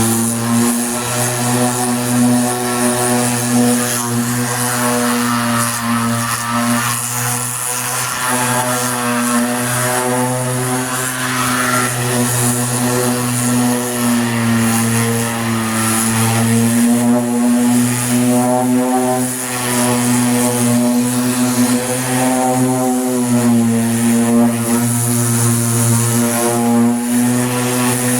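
Power sander running steadily on body filler on a truck door, its motor whine wavering slightly in pitch as it is worked over the panel, with a high hiss over it.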